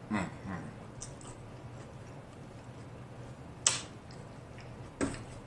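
Close-up mouth sounds of a person chewing a spring roll: two short falling "mm" hums at the start, then a single sharp crunch a little past the middle.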